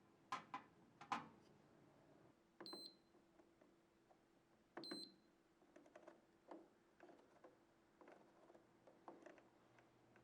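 Faint scattered clicks and light taps, with two short high-pitched beeps a couple of seconds apart, each starting with a click.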